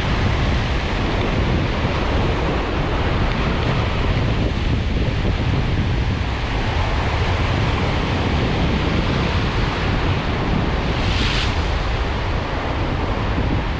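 Wind buffeting the microphone over surf washing on the shore, a steady rush with heavy low rumble. A brief louder hiss about eleven seconds in.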